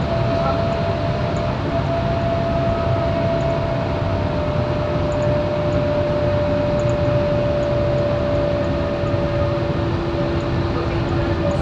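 Scania K230UB single-decker bus with its 9-litre five-cylinder diesel running under way: steady engine and road noise with a whine that slowly falls in pitch, and a second lower tone joining about halfway.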